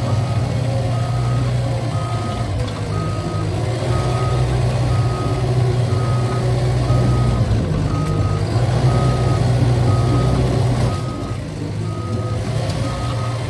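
Cat bulldozer's diesel engine running under load while its reverse alarm beeps steadily, about two beeps a second, as the dozer backs up. The engine eases off slightly near the end.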